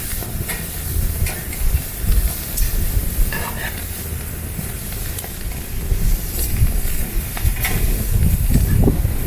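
Skirt steak sizzling over a campfire, a steady hiss broken by scattered spits and crackles, with a low rumble underneath.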